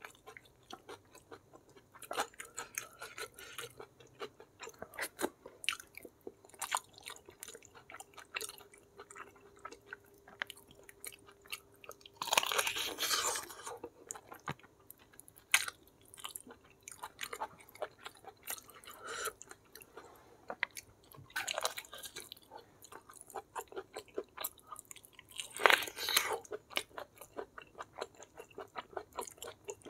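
Close-miked eating: wet chewing, smacking and biting as beef-foot kikil is gnawed off the bone, with a louder crunchy spell of a few seconds near the middle and another near the end.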